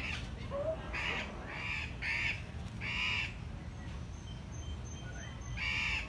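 Andean cock-of-the-rock giving short, harsh, nasal squawking calls: four in quick succession over the first three seconds, then one more near the end.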